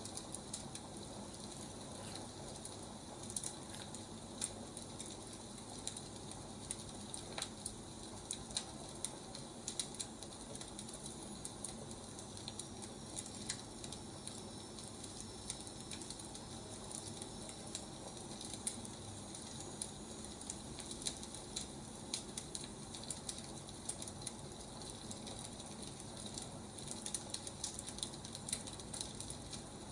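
Firewood burning, crackling with irregular snaps and pops over a steady hiss.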